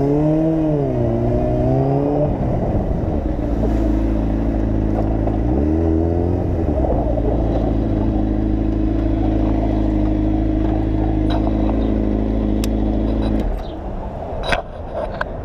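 Motorcycle engine revving and changing pitch, then holding a steady note while riding, easing off about thirteen seconds in; a few sharp clicks near the end.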